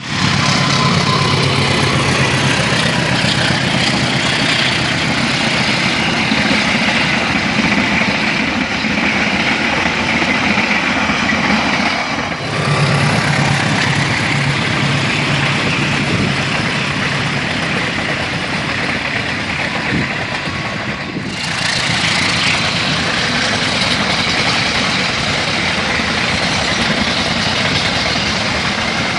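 Train running close by: a steady loud rush of noise under a low droning hum that comes and goes. The sound breaks off briefly twice, about twelve and twenty-one seconds in.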